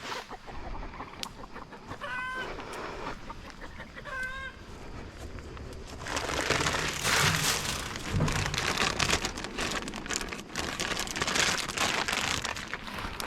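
Two short, warbling calls from domestic poultry a couple of seconds apart, then a loud, steady rushing hiss lasting about six seconds.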